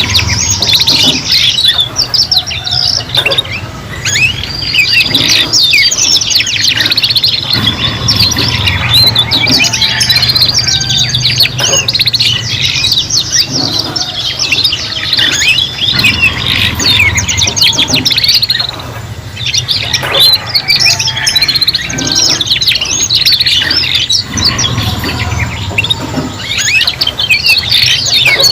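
Several domestic canaries singing together in continuous, fast, high-pitched trills, chirps and warbles, over a steady low hum.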